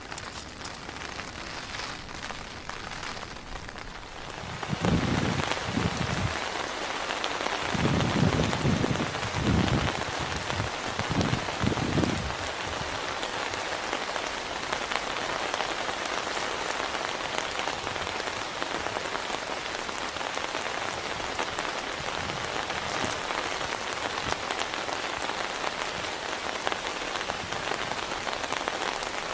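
Heavy rain swells into a downpour about four seconds in and then falls steadily as a dense hiss of drops. A few low rumbles come through during its first several seconds.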